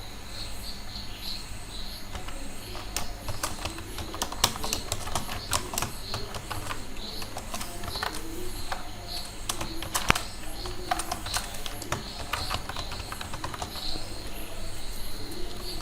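Typing on a computer keyboard: irregular clicks of keystrokes, over a steady low hum.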